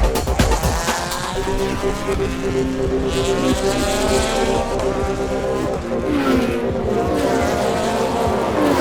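Several slot cars' small electric motors whining as they race around the track, their pitches rising and falling and crossing one another as the cars accelerate and brake.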